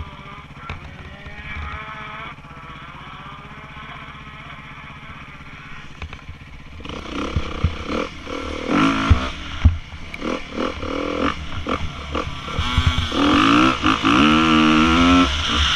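Dirt bike engines running and revving. They are quieter at first, then louder from about halfway through, with repeated rising and falling revs and one long climbing rev near the end.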